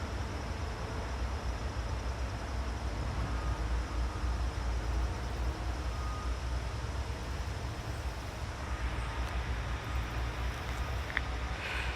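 Steady low outdoor rumble with an even hiss over it, unbroken throughout; a couple of faint short high sounds come near the end.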